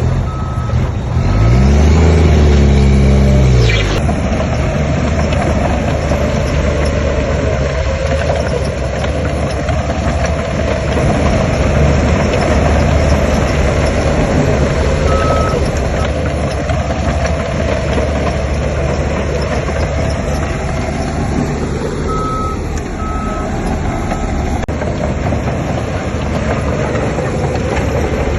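Heavy diesel construction machinery running, with an engine revving up and back down about two to four seconds in. A reversing alarm beeps at the start, once about halfway through and again a few times later on.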